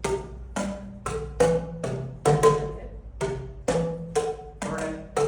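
Boomwhackers, tuned plastic tubes, struck one after another in quick succession, each a single hollow pitched bonk at a different note, about two or three a second, the sound passing from player to player around a circle.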